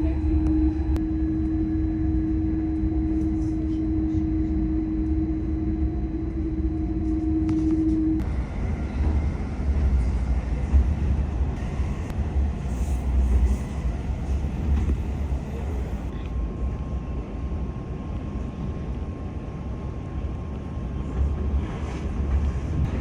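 Passenger train running on the rails: a steady low rumble with a humming tone that cuts off abruptly about eight seconds in, after which the rumble turns rougher, and a faint higher hum comes in later.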